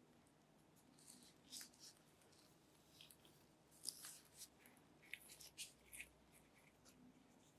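Faint handling sounds of a phone box and its packaging: scattered light clicks, taps and scratchy rustles coming irregularly, a few a second at most.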